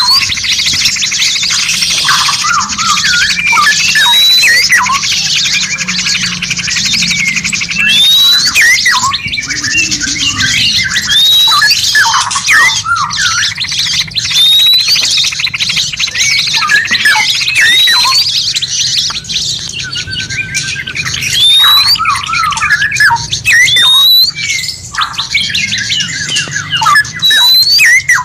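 Several songbirds chirping, whistling and squawking at once in a dense overlapping chatter, with a sharp upward-sweeping whistle repeated every couple of seconds. All of it sits over a steady hiss.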